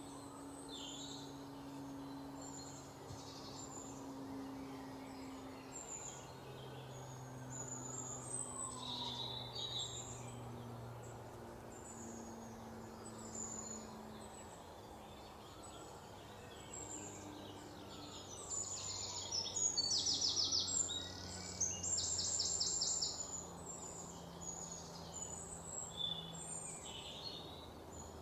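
Several birds chirping in short high calls, with a loud fast trill of rapidly repeated notes about two-thirds of the way through. A faint low hum runs underneath.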